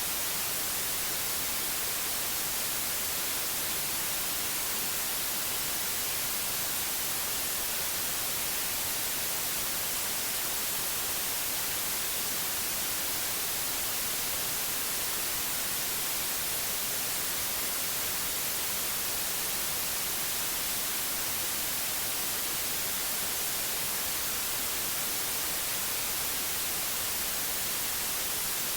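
Steady white noise: an even, unchanging hiss, brightest in the highest pitches.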